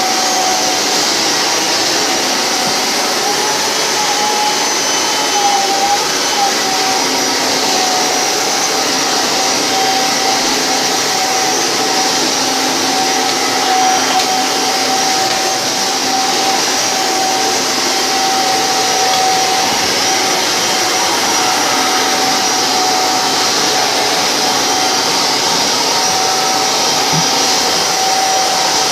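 G5 vacuum cleaner running steadily in canister mode with a hard-floor attachment, vacuuming a hard floor: a constant motor whine over a rushing hiss of air, its pitch wavering slightly a few seconds in.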